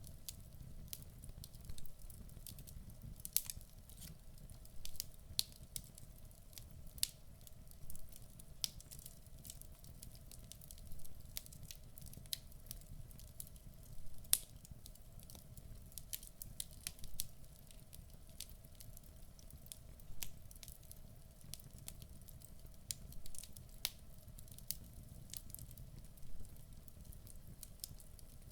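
Log fire burning in a fireplace: irregular sharp crackles and pops from the burning wood, sometimes in quick clusters, over a low steady rumble of the flames.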